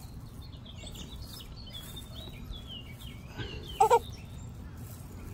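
Birds chirping in short rising and falling notes over a low outdoor rumble, with two short loud squeaks close together just before four seconds in.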